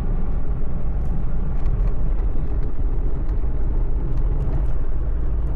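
Steady low rumble of a car driving at speed, road and engine noise heard from inside the cabin.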